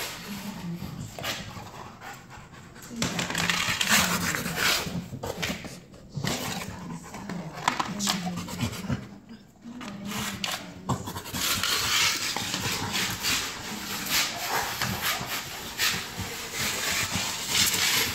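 Rottweiler panting, with a couple of brief pauses.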